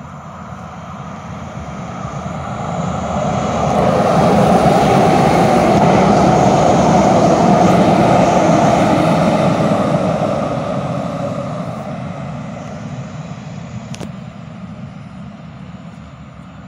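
A train passing by: a rushing noise swells up over a few seconds, stays loud for several seconds, then fades away. A single sharp click near the end.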